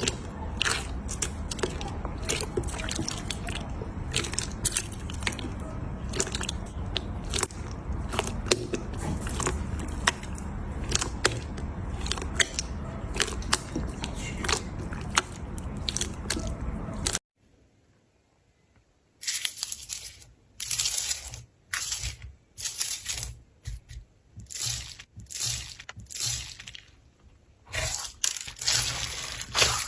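Slime being squeezed and kneaded with dense crackling and popping. About 17 seconds in it cuts off, then comes back as a series of separate short squishes, roughly one a second.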